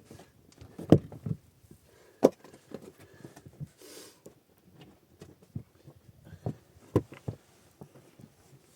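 A string of irregular knocks and clatters at uneven spacing, the loudest about a second in, just past two seconds and near seven seconds, with a brief rustle about halfway through.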